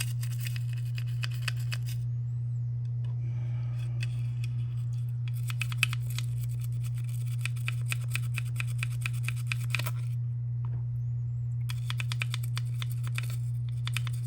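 Stiff toothbrush scrubbing paint softened by isopropyl alcohol off a model car part, in runs of quick strokes with two short pauses. A steady low hum runs underneath.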